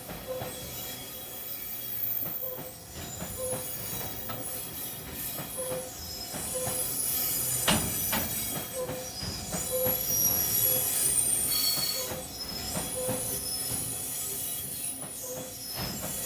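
JR Freight EF210 electric locomotive hauling two freight wagons through the station, its wheels squealing high-pitched on the rails over the rumble of the passing train, with a sharp crack about eight seconds in. A short tone repeats about once a second throughout.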